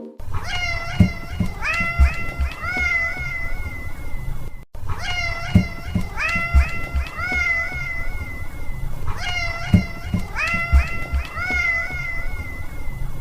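Cat meowing over and over, short high-pitched meows that rise and fall in quick succession; the same few-second run of meows plays about three times.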